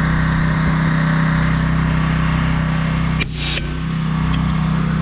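Gas pressure washer engine running steadily under load, with the hiss of the wet sandblasting spray over it. A little over three seconds in the sound briefly dips and changes.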